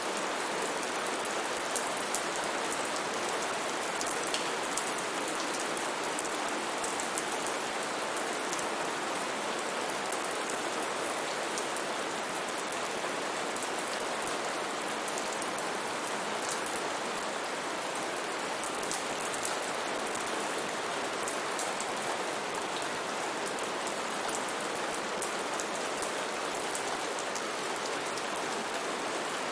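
Steady rain falling, an even hiss of rainfall with many small scattered drop ticks.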